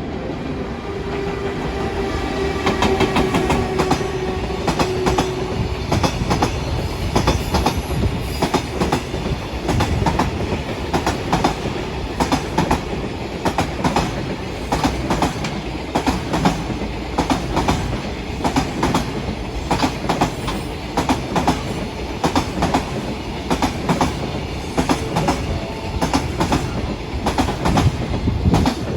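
A train running past over jointed track, its wheels clicking over the rail joints in a steady, repeating clickety-clack, with a steady whine in the first few seconds.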